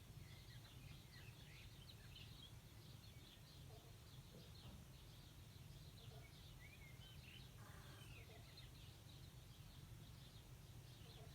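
Faint birdsong: many small birds chirping and twittering, over a steady low hum of outdoor background noise.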